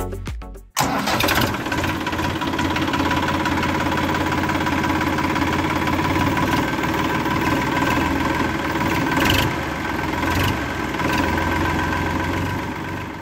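Tractor engine running steadily with a fast knocking rhythm. It starts just under a second in, as background music cuts out.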